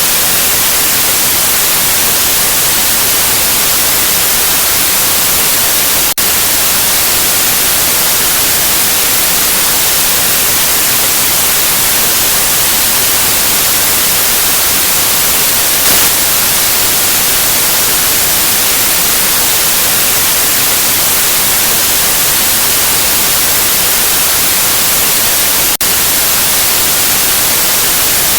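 Generated white noise: a loud, steady, even hiss across all pitches, broken only by two split-second dips, about six seconds in and near the end.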